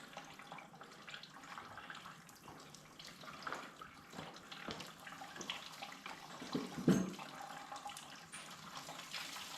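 Coolant running out of a Ford 8N tractor engine and splashing as it drains, with a single louder knock about seven seconds in.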